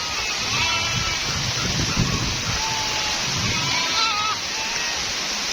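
Steady rain falling, with goats bleating faintly several times through it.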